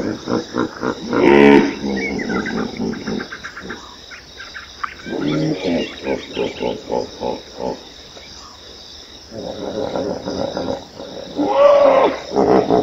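Animal calls: a few loud pitched cries, with runs of short, quickly repeated calls between them.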